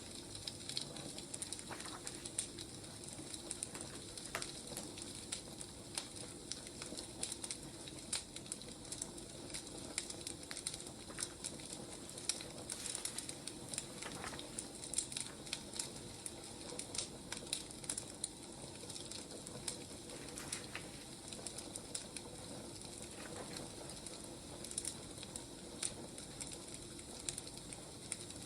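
Burning firewood crackling, with many irregular sharp pops over a soft, steady hiss.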